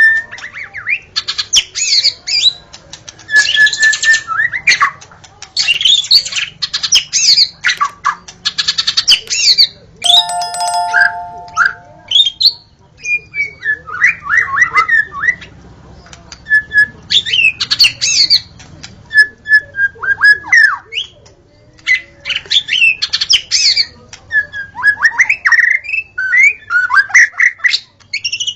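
White-rumped shama singing in loud bursts of rapidly varied whistles, sweeps and trills, separated by short pauses. About ten seconds in, a brief steady whistled tone stands out.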